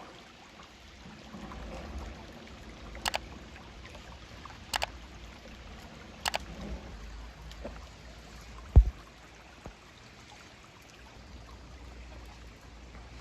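Steady rushing of running water, like a nearby stream, with three sharp clicks about a second and a half apart, then a single louder low thump.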